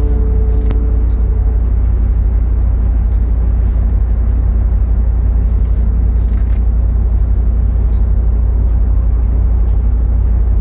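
Loud, steady low rumble with a faint hiss above it.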